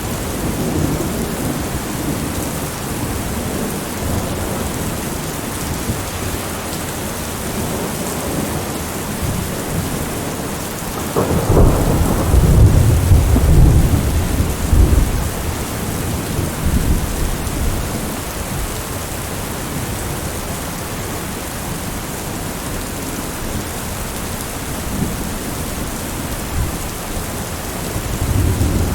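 Heavy rain beating on a window, steady throughout, with thunder breaking suddenly about eleven seconds in and rumbling on for several seconds. A fainter rumble rises near the end.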